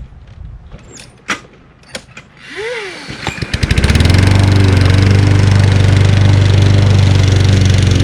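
Gas lawn mower being pull-started: a quick whir of the starter cord about two and a half seconds in, then the engine catches a second later and runs loud and steady.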